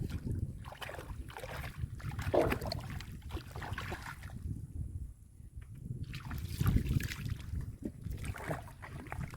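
Irregular splashing and sloshing in shallow muddy water, as hands dig through mud for fish, over a steady low rumble.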